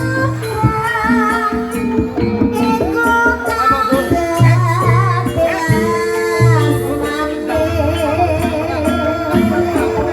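Javanese gamelan-style ebeg accompaniment: a singer's line with vibrato over sustained metallic low tones and a hand drum, continuing without a break.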